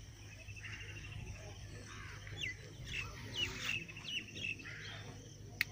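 Small birds calling: rapid trills and short, sharply falling chirps. A sharp click comes near the end.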